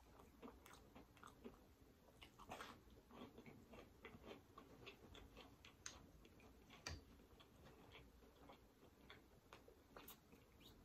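Faint close-up chewing of fried festival dough: soft, irregular mouth clicks and smacks.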